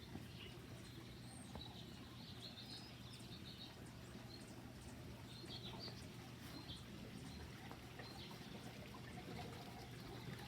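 Faint ambience of small birds chirping, short high calls scattered throughout, over a low steady hum.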